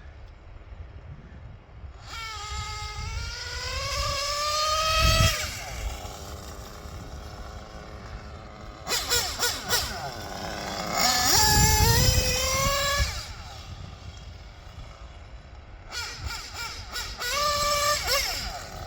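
O.S. R21 GT two-stroke nitro engine in a 1/8 RC car, revved hard three times. Each time the pitch climbs steadily with no drop from a gear change, then cuts off. The two-speed gearbox is not shifting, as the owner concludes.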